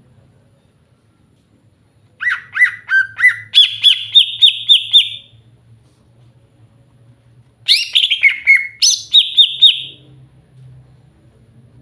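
Green leafbird (cucak hijau) singing: two bursts of song, each a quick run of repeated chirping notes that steps up in pitch partway through. The first starts about two seconds in, the second about two-thirds of the way through.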